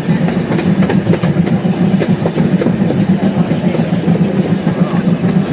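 Hermann Park miniature train heard from aboard a passenger car, running along the track: a steady low rumble with frequent sharp clicks and rattles from the wheels and cars.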